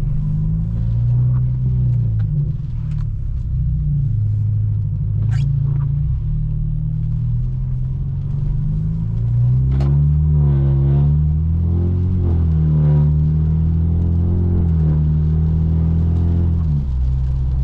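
Straight-piped exhaust of a tuned BMW F30 328i's turbocharged four-cylinder, a low rumbling drone that rises and falls with revs as the car accelerates and shifts, pulling harder through the second half. A couple of short sharp clicks stand out above it.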